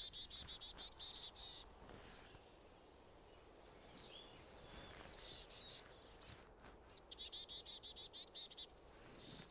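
Songbirds singing at dawn: a fast trill of repeated high notes in the first second or so, a few short falling calls in the middle, and another fast trill near the end.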